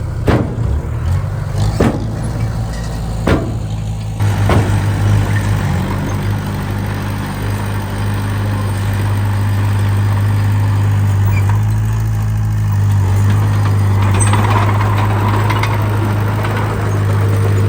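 Heavy diesel engine of earthmoving machinery running steadily, with four sharp knocks in the first five seconds and a rougher, noisier stretch near the end.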